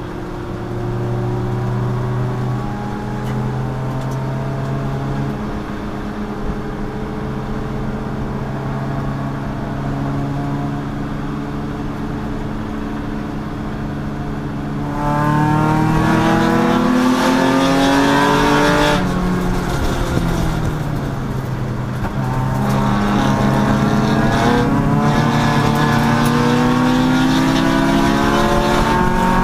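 Chump Car race car engine running hard at lapping speed, holding a fairly steady pitch for about the first half. It then gets louder, with the pitch climbing under acceleration, falls away briefly and climbs again.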